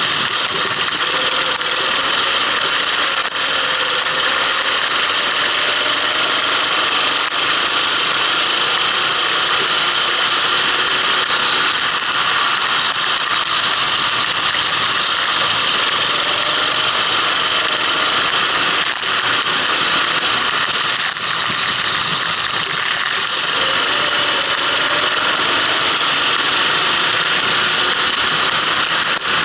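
Kart engine running at speed, its pitch rising and falling repeatedly as it is revved and eased off through the corners, under a heavy steady hiss.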